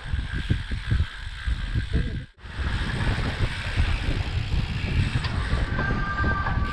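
Wind buffeting the microphone over tyre and road noise while riding a bicycle, with a brief cut-out about two seconds in. A short, steady high-pitched squeal near the end.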